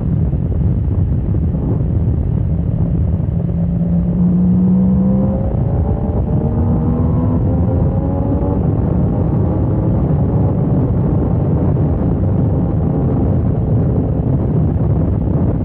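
Motorcycle engine running at speed under heavy wind rumble on the microphone. Its note holds steady, then rises for several seconds from about five seconds in as the bike accelerates.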